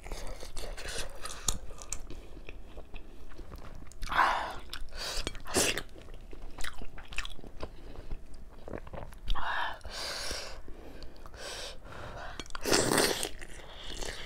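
Close-up eating sounds: chewing and biting soft steamed chicken momo, with wet mouth clicks and several louder, longer mouth noises about four, ten and thirteen seconds in.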